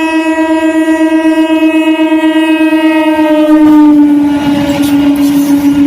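Horn of a DEMU train blowing one long, unbroken note as the train runs past at speed. About two-thirds of the way through, the pitch drops slightly as it goes by, and the rumble and clatter of the passing train rise beneath it.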